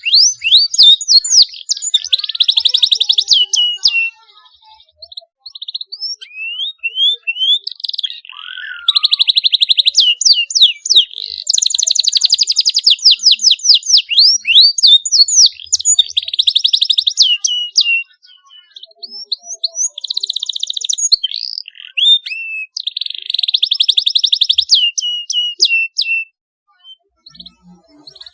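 Canary singing in phrases of fast rolling trills and sharp repeated chirps, with short pauses between the phrases.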